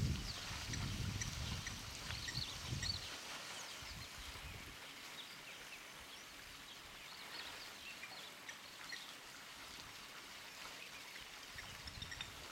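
Birds chirping and calling in the bush, many short high calls scattered throughout. A low rumble underneath fades out about three seconds in.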